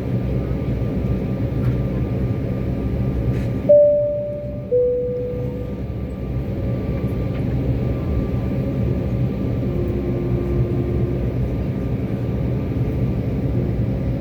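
Steady airliner cabin noise, a low hum and rush of air, with a two-tone cabin chime about four seconds in: a high note followed a second later by a lower one.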